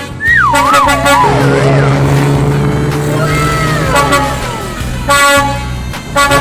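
Cartoon sound effects: a wobbling whistle that falls in pitch, then a steady low horn-like tone with several falling glides over it, and a short honk-like blast about five seconds in.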